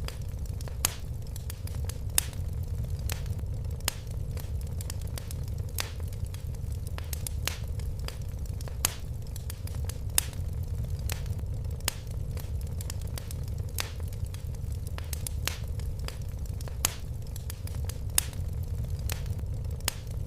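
Fire crackling in a fireplace: irregular sharp snaps and pops, a few louder than the rest, over a steady low rumble of the flames.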